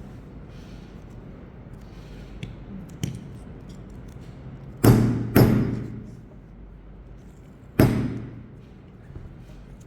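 Hammer striking a metal letter stamp to punch a letter into a ring blank: three sharp blows, two about half a second apart and a third some two seconds later, each with a short ringing decay.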